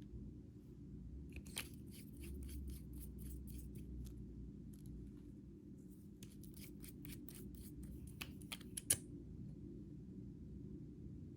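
Small, sharp clicks or snips in two quick runs, one about a second in and another from about six seconds in, the loudest coming near the end of the second run, over a faint steady low hum.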